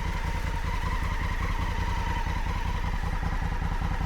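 Big adventure (maxi enduro) motorcycle engine running steadily at low revs with no revving, a pulsing low rumble with a faint steady whine above it.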